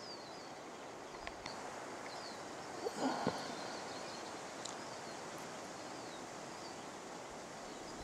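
Small birds chirping now and then over a faint steady outdoor background hiss, with one brief louder rustling noise about three seconds in.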